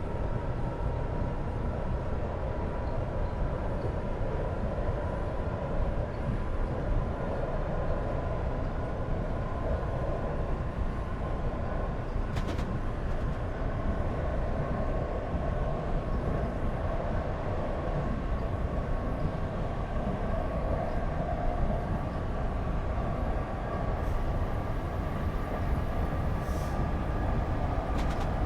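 Passenger train running along the line: a steady low rumble with a whine that rises slowly in pitch, and a short click about twelve seconds in.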